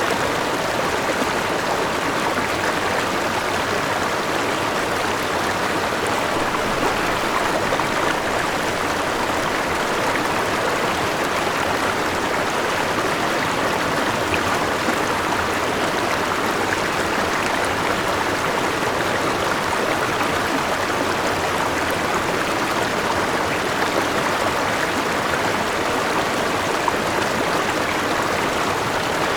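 Forest river with a small waterfall flowing: a steady rush of water.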